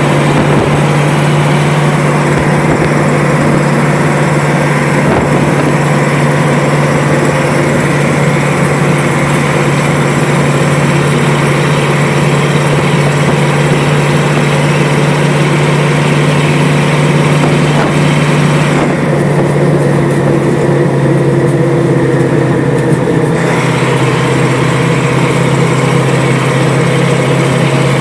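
Fire engine running, heard as a loud, steady engine drone with a strong low hum. The hiss above it thins out for a few seconds about two-thirds of the way through.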